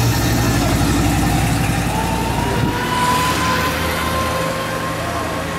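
Late-1950s Buick's V8 engine running at a slow crawl as the car rolls past close by. The low rumble is strongest at first and fades after about four seconds as the car moves off.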